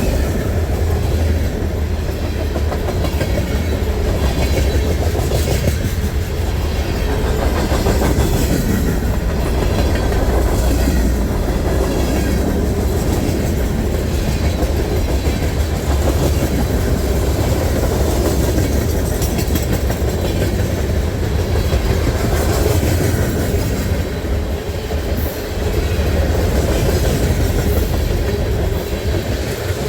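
Freight train's cars rolling steadily past, with a continuous low rumble and wheels clicking over the rail joints.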